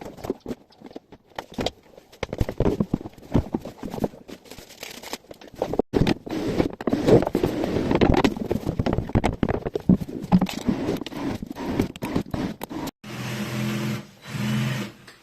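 Clattering, scraping and knocking of hardware being handled and fitted, followed near the end by a power drill running in two short bursts.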